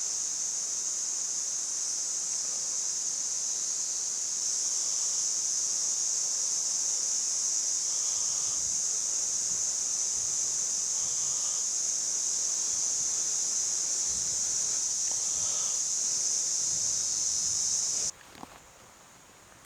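Steady, high-pitched chorus of insects, cutting off abruptly near the end. A few faint small knocks and rustles sit under it.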